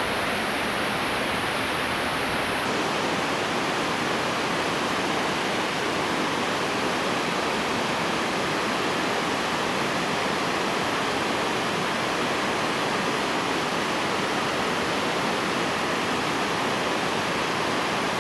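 Waterfall crashing down steadily, a dense, unbroken rush of falling water.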